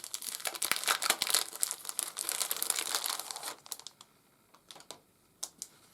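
Plastic packaging around a fabric poster crinkling steadily as it is handled, stopping about three and a half seconds in, followed by a few light ticks.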